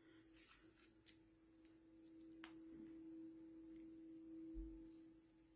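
Near silence: a faint steady hum with a few soft clicks, the clearest about two and a half seconds in.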